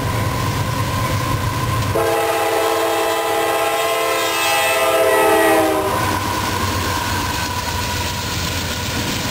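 A train rumbling past while its locomotive's multi-note air horn sounds one long blast starting about two seconds in and lasting about four seconds, sliding down slightly in pitch as it ends.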